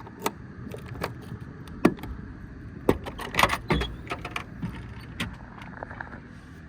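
Irregular sharp clicks and knocks, about a dozen, bunched together a little past the middle, over a low steady hum.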